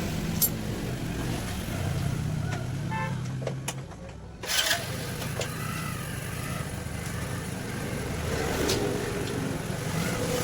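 Steady motor-vehicle engine hum, with a few sharp clicks.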